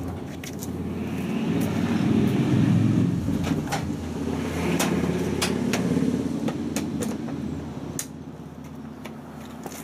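Hotpoint Ultima WT960 washing machine running after being restarted: a steady low mechanical hum that swells and eases, with scattered clicks and knocks.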